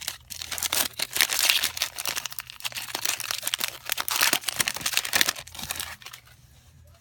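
Foil booster pack wrapper crinkling and tearing as it is opened by hand, a dense crackle that dies down about six seconds in.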